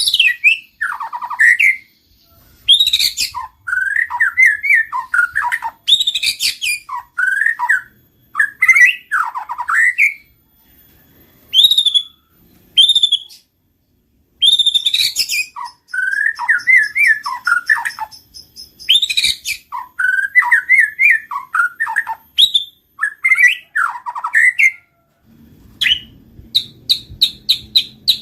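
White-rumped shama singing: loud, varied whistled phrases of quick up-and-down notes, broken by short pauses, ending in a fast run of short high notes near the end.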